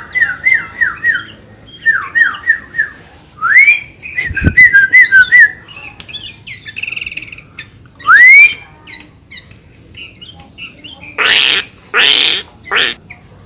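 Sooty-headed bulbul (kutilang) singing: runs of quick down-slurred whistled notes and rising slurred whistles, with three loud, harsh calls near the end. The song includes phrases copied from the white-rumped shama (murai).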